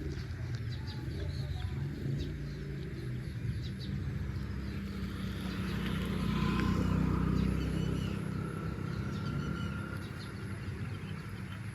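Swaraj 735 tractor's three-cylinder diesel engine working under load as the tractor is driven up a slope it had struggled to climb. It grows louder about five seconds in, peaks around seven seconds, then eases off.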